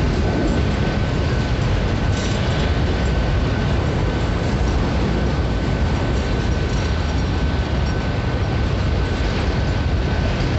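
Freight train of covered hopper wagons rolling past at a level crossing: a steady rumble of steel wheels on the rails, with a thin steady high tone running through it.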